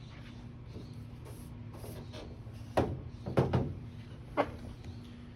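Four sharp knocks or clunks, like hard objects being handled or set down, over a steady low hum.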